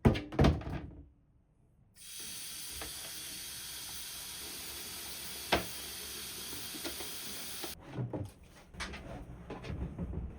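Steady hiss of spraying water, starting about two seconds in and cutting off suddenly near the end, with a few light knocks before and after.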